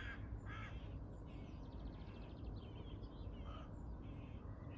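Birds calling outdoors: a crow caws near the start and fainter caws follow later. About two seconds in a smaller bird gives a faint, rapid trill, all over a steady low background rumble.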